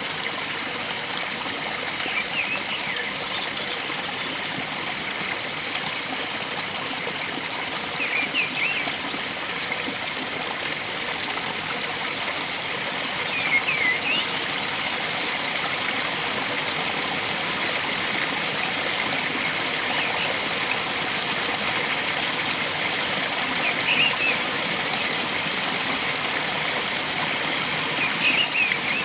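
Flowing water rushing steadily, with a bird giving short, high chirps about every four to six seconds.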